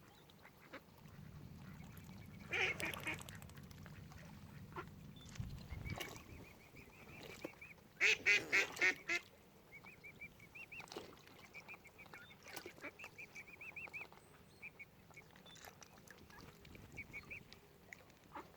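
Mallards quacking: a short harsh burst about three seconds in and a louder run of about five quacks around eight seconds in. Soft high peeping from young waterbirds recurs throughout.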